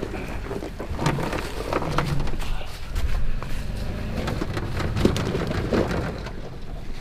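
Off-road vehicle crawling slowly over a rocky trail: a low engine rumble with tyres crunching, crackling and popping over rocks and gravel.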